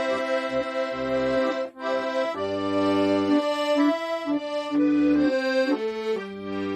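Solo accordion playing a slow Korean trot melody: held reed notes in the right hand over pulsing bass notes from the left-hand buttons, with a brief break about two seconds in.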